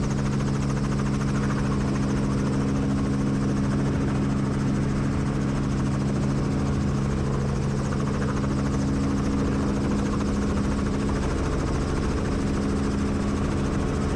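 Helicopter running with a steady, unchanging drone of engine and rotor.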